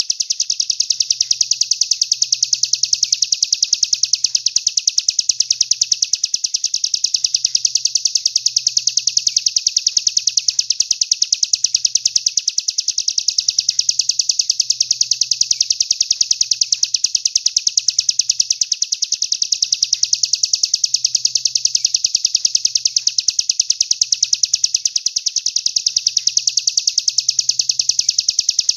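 A songbird singing a 'tembakan': a fast, unbroken trill of high notes repeated many times a second, the shot-like song that contest judges favour and that is played to train pet songbirds.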